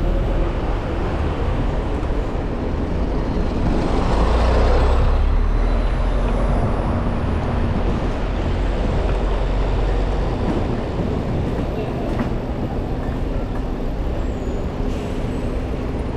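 City road traffic heard from a bicycle in the flow of traffic: heavy vehicle engines running close by over a constant low rumble, swelling loudest about four seconds in.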